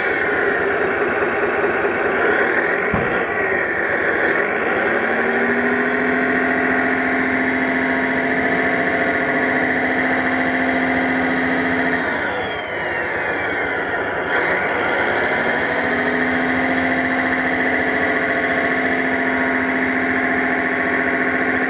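Whine of a 1/5-scale RC Ford 6610 tractor's motors and gearing running under load, with steady tones that sweep down and back up twice as it slows and picks up speed again.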